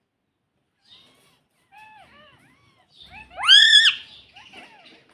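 Indian ringneck parrot making short soft chirps, then one loud arched call about three and a half seconds in, followed by more quiet chirps.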